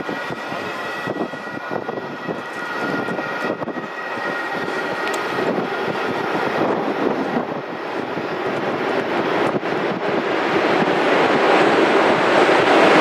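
Train approaching through a station, its noise building steadily louder over the last few seconds. A steady high whine fades away in the first few seconds.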